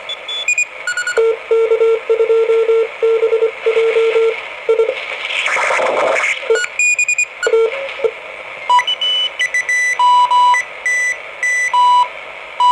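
Morse code (CW) signals in an HF amateur transceiver's audio over band hiss: keyed beeps at a low pitch for the first several seconds, then at a higher pitch after a swish of noise near the middle as the receiver moves to another station.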